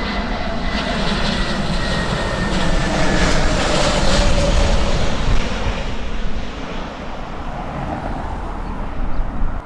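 Airbus A321 jet airliner passing low overhead on landing approach: engine roar swells to its loudest about four seconds in, with a whine that slides slightly lower in pitch, then fades as the aircraft moves away.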